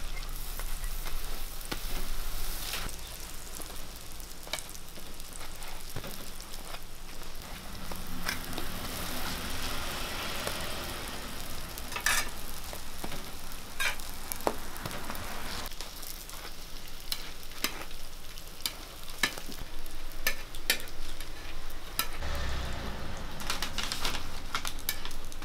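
Sweet pumpkin hotteok sizzling in oil on a flat griddle, with sharp clicks and scrapes at irregular moments from the metal spatula and hotteok press against the griddle.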